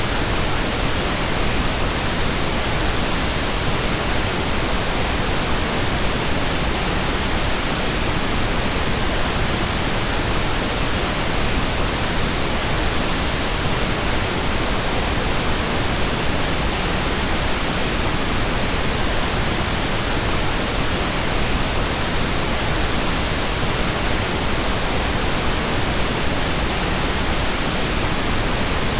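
Pink noise: a steady, even hiss across all pitches, unchanging throughout.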